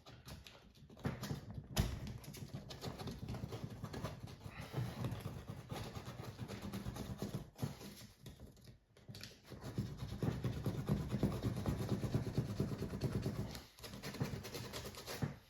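Sandpaper rubbed back and forth by hand over the rubber skin of an inflatable boat, a rough rhythmic scraping in repeated strokes with a few short pauses, roughening the surface so the glue will hold.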